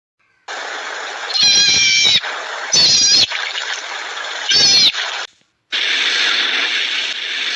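A cat meowing three times, each meow a loud pitched call under a second long, over steady background hiss. Near the end the sound drops out briefly and a different steady noisy background starts.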